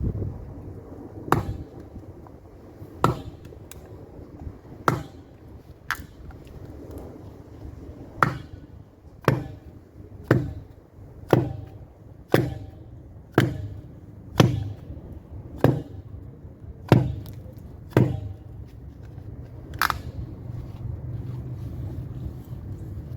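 Axe chopping into a wooden beam to cut it into pieces: about fifteen sharp blows roughly a second apart, stopping a few seconds before the end.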